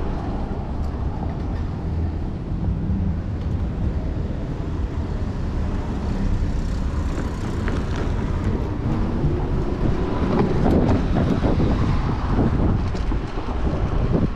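Wind noise on the microphone of a moving bicycle, with city traffic around it. About nine seconds in, a vehicle's engine rises in pitch and gets louder as it passes.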